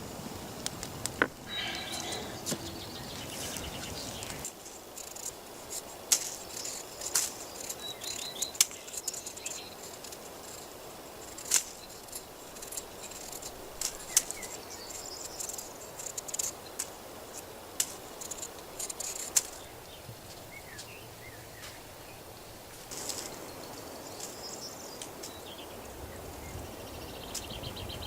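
Forest ambience with small birds chirping now and then and scattered sharp clicks and knocks.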